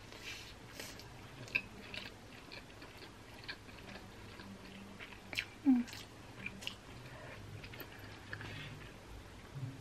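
Close-up eating of a mouthful of stir-fried yakisoba noodles: wet chewing with scattered mouth clicks and smacks, and one brief louder mouth sound about halfway through.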